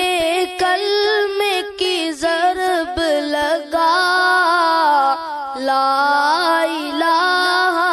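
Islamic devotional chant (nasheed) in a melismatic style: a voice sings a wordless, bending melody over a steady drone.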